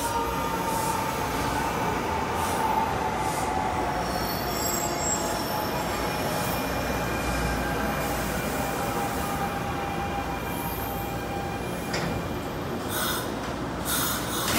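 NJ Transit Arrow III electric multiple-unit train pulling into the station and slowing to a stop, its wheels squealing with a thin high whine that drifts down in pitch. A few short hisses come near the end.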